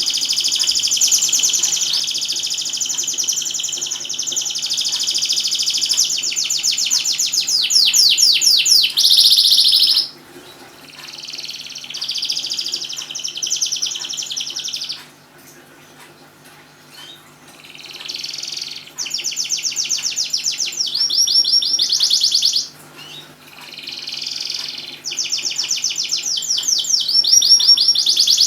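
Domestic canary in full song: long rolling phrases of rapid trills and chirps, high-pitched, broken by a few short pauses.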